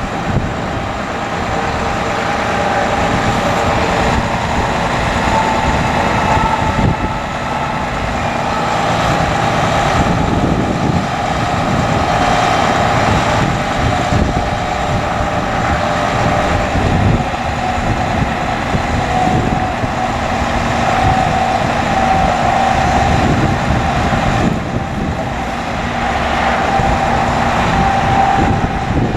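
2008 Hino 338 bucket truck's diesel engine running steadily: a low rumble under a whine that wavers slightly in pitch.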